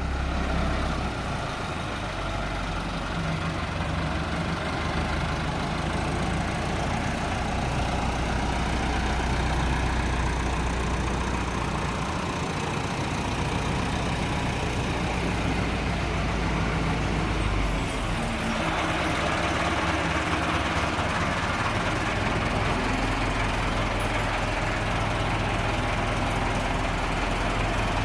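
Diesel farm tractor engine running steadily. About eighteen seconds in, its sound changes, with more higher-pitched noise coming in.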